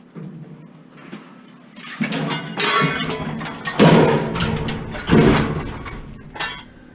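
Irregular thumps and metallic bangs with scraping as a heavy metal appliance is shifted and loaded, the loudest knocks about four and five seconds in.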